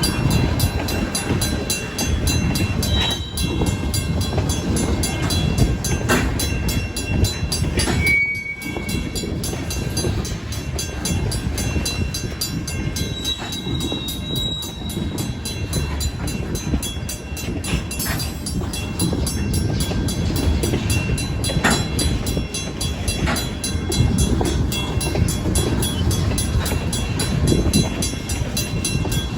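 Freight cars being shoved slowly in reverse across a grade crossing: a steady rumble of wheels on rail with a few sharp clacks. Over it the crossing's WCH mechanical bell rings without a break.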